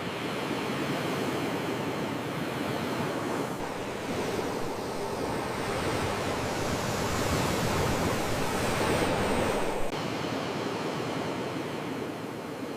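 Ocean surf washing steadily, swelling to a peak about nine seconds in and then dropping off suddenly just before ten.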